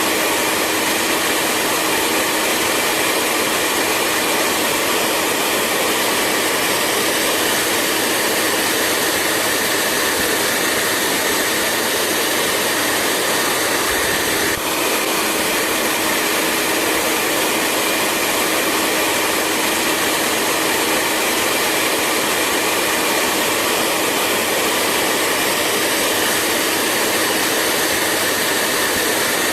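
Hair dryer running steadily: a constant rush of blown air under a faint steady motor hum, with one brief dip about halfway through.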